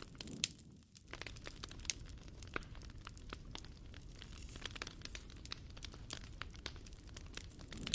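Wood campfire crackling, with dense irregular snaps and pops over a steady low hiss. It dips briefly about a second in.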